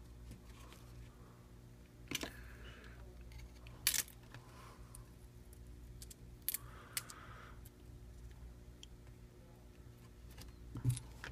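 Scattered light clicks and taps of small tools and phone parts being handled while parts are moved from the old phone frame to the new one, with a few soft scrapes between them. A steady low hum runs underneath.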